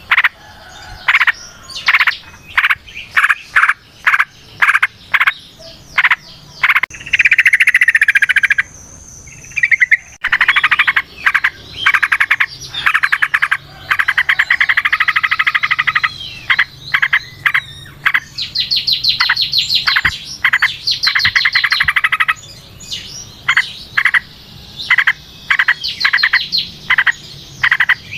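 Yellow-vented bulbul (trucukan) singing: a string of short, sharp calls broken by several long, fast chattering runs, the longest lasting a few seconds each.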